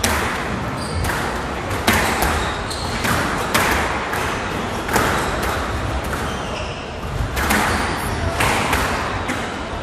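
Squash rally: the ball cracking off rackets and the court walls in sharp hits every second or two, each followed by a hall echo.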